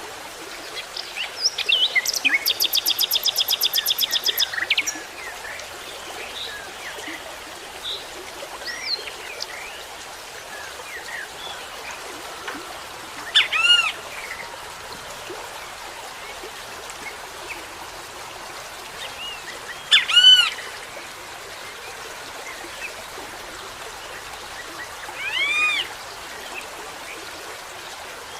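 Small birds calling: a fast, rapid trill from about one to five seconds in, then three short arching calls several seconds apart and scattered soft chirps, over a steady background hiss.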